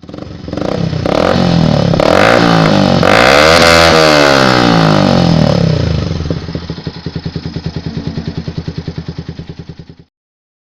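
Yamaha Vixion motorcycle's single-cylinder engine revved through a custom R9 racing exhaust: revs climb through several throttle blips to a sustained high rev, fall back to a lumpy idle with distinct exhaust pulses, and the sound cuts off abruptly near the end.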